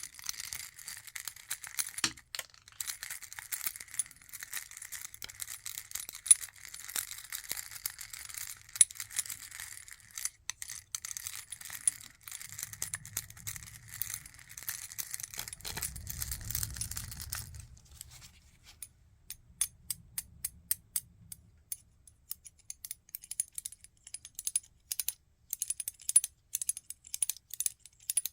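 Crinkling and tearing of wrapping, handled close up, for about the first seventeen seconds. Then a run of sharp clicks and taps that grows busier toward the end.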